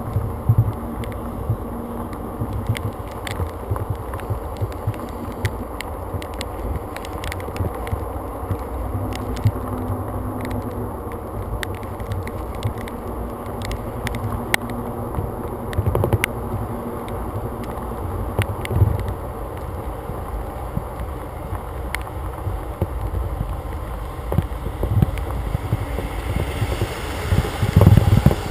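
Storm wind buffeting a GoPro's microphone: a steady low rumble that swells with gusts, with scattered sharp ticks throughout and a stronger gust near the end.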